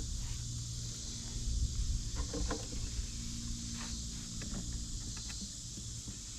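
A few light clicks and taps of a hand tool working the drain plug on an excavator's final drive, over a steady low hum.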